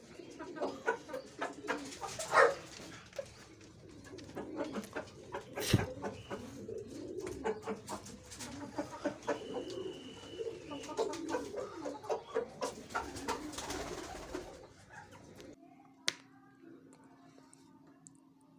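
Pigeons cooing in low, rolling calls, mixed with sharp clicks and knocks, louder twice in the first six seconds. The activity stops about fifteen seconds in, leaving a faint hum and one more click.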